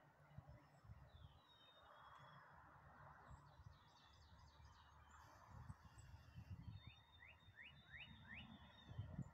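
Faint birdsong: scattered chirps, then a quick run of about six short rising notes near the end, over a low rumble.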